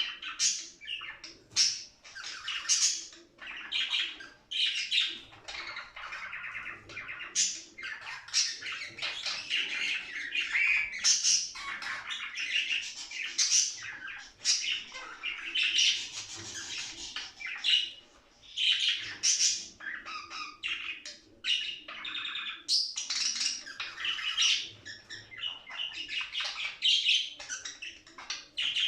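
Budgerigars (parakeets) chattering: a steady mix of warbling chirps and sharp squawks, the busy breeding-season chatter of an active flock.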